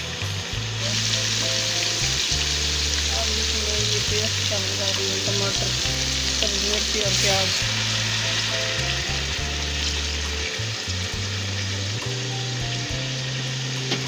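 Garlic-ginger paste, then tomato purée, frying in hot oil: a steady sizzle that grows louder about a second in.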